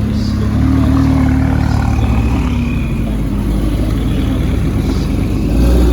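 Car engine running at a fast idle, revs rising slightly about half a second in and settling back down, then swelling again near the end.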